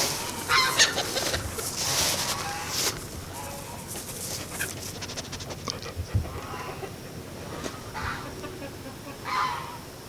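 Chickens clucking, with a scatter of short calls.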